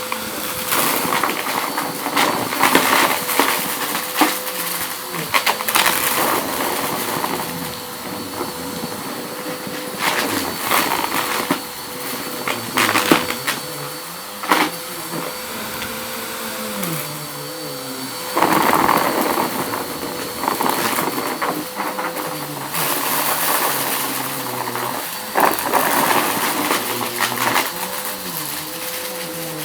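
Vacuum cleaner running on a rug with a steady motor whine, sucking up crunchy debris that crackles and clicks as it goes up the hose. The motor pitch dips and rises as the cleaner is pushed back and forth.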